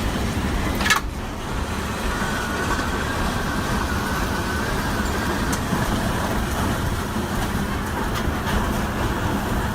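Steady rush of tornado-force wind buffeting the microphone, with a single sharp crack about a second in.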